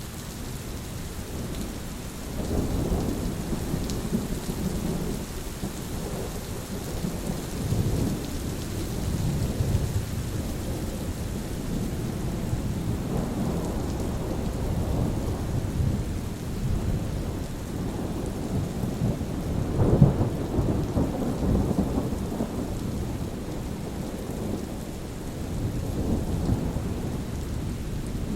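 Steady rain falling through long rolling thunder rumbles. The thunder swells a couple of seconds in and keeps rolling, loudest about two-thirds of the way through.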